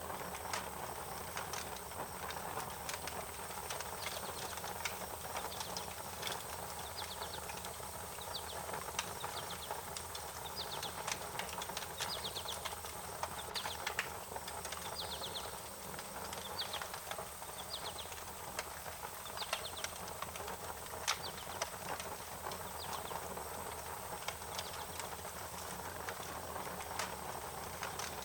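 A fire crackling, with scattered sharp pops and ticks over a steady hiss. Short, high, rapidly pulsed chirps repeat every second or two through the middle stretch.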